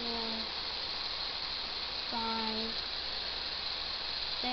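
Steady hiss with a low hum underneath, broken twice by a short, flat, low hummed tone about two seconds apart, with a third just beginning at the end.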